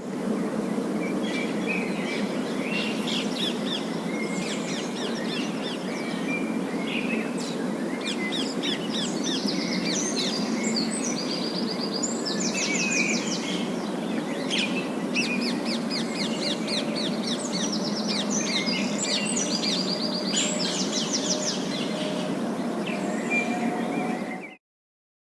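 A flock of parakeets chattering, with busy chirps and fast rattling trills, over a steady low rushing background noise. The sound cuts off abruptly near the end.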